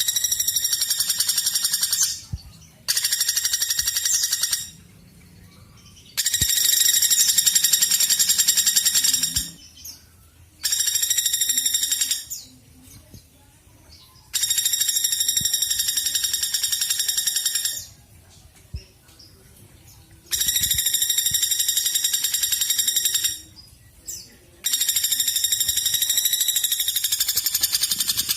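Woodpecker calling: a long, rapid, steady-pitched trill held for two to three seconds, repeated about seven times with short pauses between.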